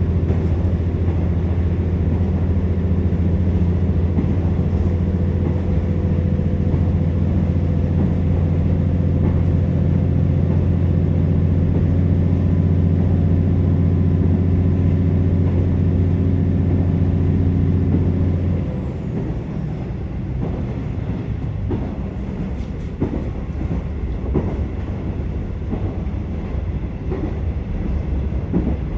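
KiHa 47 diesel railcar heard from inside the passenger cabin, its diesel engine droning steadily under power. About two-thirds of the way through, the engine note drops suddenly as power is shut off and the car coasts, leaving wheel clicks and knocks over the rail joints.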